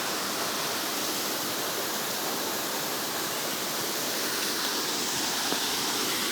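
Steady rush of fast-flowing river water, an even sound with no breaks.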